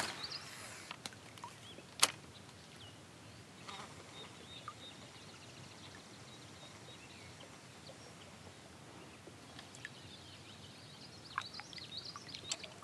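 Quiet open-air ambience with faint, scattered bird calls, more of them near the end, and a single sharp click about two seconds in.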